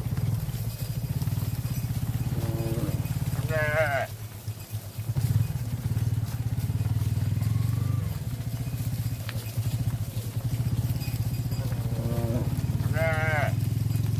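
A small engine, like a motorcycle's, running steadily with a low, fast-pulsing drone. An animal gives a short, high, wavering bleat-like call twice: a few seconds in and again near the end.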